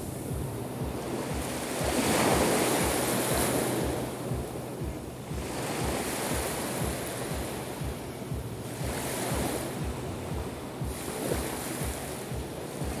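Black Sea surf: waves breaking and washing onto the shore, swelling and fading every few seconds, with wind buffeting the microphone.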